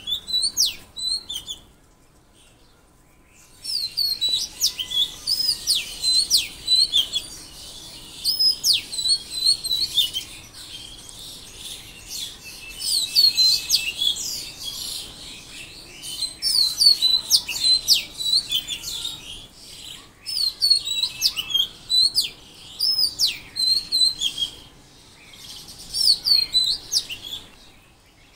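Small songbirds chirping in quick repeated phrases of short, sharply swooping high notes, with a pause of about two seconds near the start.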